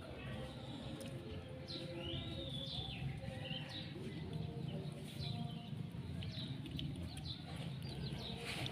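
A small songbird giving scattered short chirps, with a gliding whistled call about two to three seconds in, over a steady low hum.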